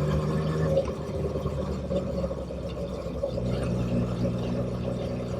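Motorcycle engine running under way, a steady engine hum whose note changes about three seconds in.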